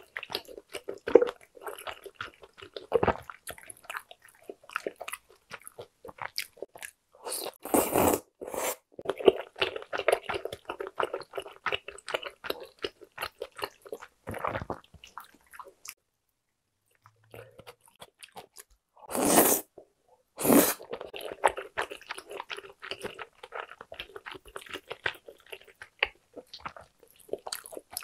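Close-miked eating sounds: a person biting and chewing spicy tteokbokki, with wet, sticky mouth noises. A few louder sharp sounds come about a third of the way in and again past the middle, with a short quiet pause between them.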